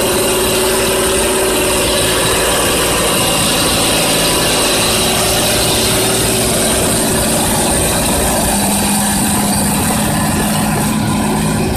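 John Deere tractor's diesel engine running steadily while ploughing, with a slight change in engine note about eight and a half seconds in.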